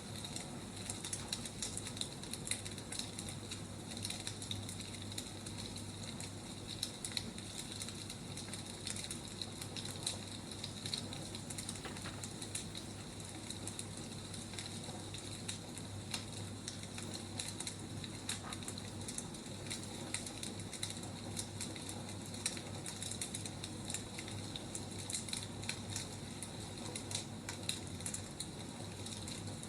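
Wood fire crackling: a dense, irregular run of small pops and snaps over a steady hiss.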